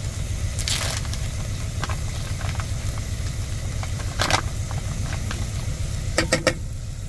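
Mushrooms and onions sizzling in beef fat in a pot, with sharp scrapes and clicks of a utensil against the pot about a second in, at about four seconds and several near the end, over a steady low rumble like a semi-truck's diesel engine idling.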